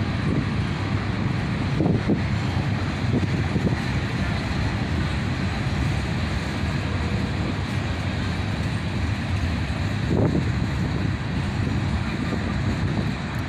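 Freight cars of a long manifest train rolling past at reduced speed: a steady wheel-and-rail rumble with a few brief clunks, twice about two seconds in and once again about ten seconds in.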